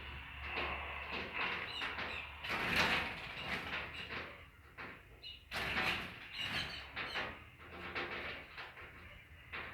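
Small pet bird chirping, with irregular scraping and tapping noises as it goes at its own reflection in a mirror.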